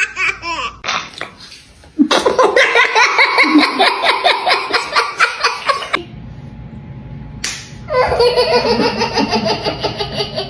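Young children laughing hard in rapid, repeated bursts, two separate stretches of giggling with a quieter pause between them.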